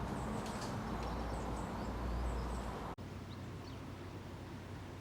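Canal boat's engine running steadily under short bird chirps. The sound cuts off abruptly about three seconds in and resumes a little quieter, with the same hum and more chirps.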